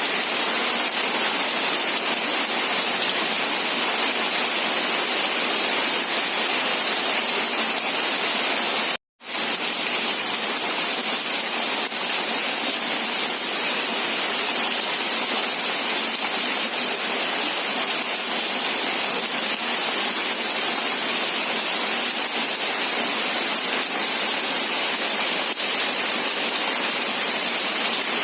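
Steady, even hiss of heavy rain falling. It cuts out completely for a split second about nine seconds in, then resumes.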